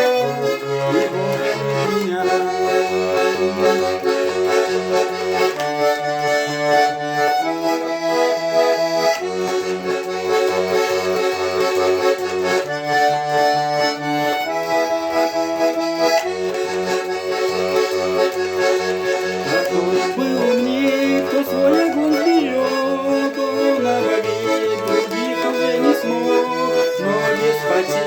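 Garmon (Russian button accordion) playing an instrumental passage with no singing. A melody runs over a bass-and-chord accompaniment that pulses in a steady rhythm.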